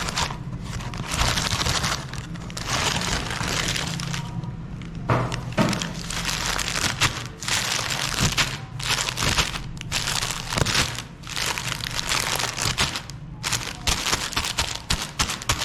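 Meat grinder grinding frozen ice cream bars: irregular crackling and cracking bursts of breaking ice cream over a steady low hum.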